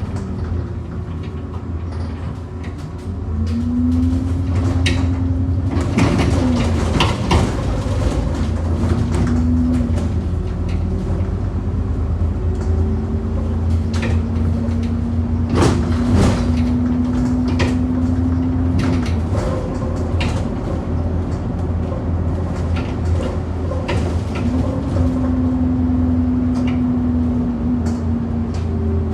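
Moving bus with loud knocks and rattles as it goes over potholes, many of them, in clusters. Under the knocks is a steady low drone and a whine that rises, holds and falls away three times as the bus pulls away and slows.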